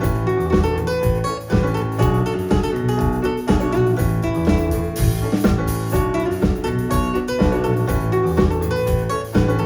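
Live band of drums, bass, guitar and piano playing a song together with a steady drum beat.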